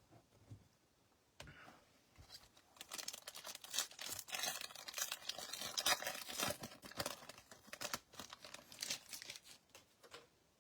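Foil trading-card pack wrapper being torn open and crinkled by hand, a run of dense, irregular crackling for most of the stretch.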